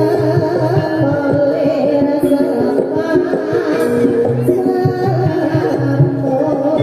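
Javanese jathilan (kuda lumping) gamelan music with fast kendang drumming and a melodic line over it, with a deep sustained tone coming and going underneath.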